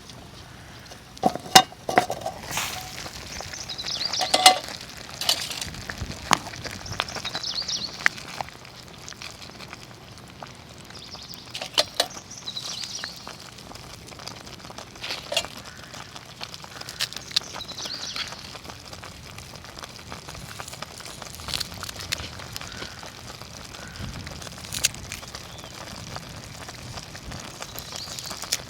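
Cooking over a campfire: a steady sizzle with scattered sharp crackles, and several clinks and knocks in the first few seconds.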